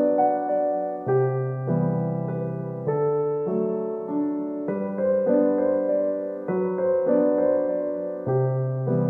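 Background piano music: a gentle, slow piano piece, with chords and bass notes changing about every second.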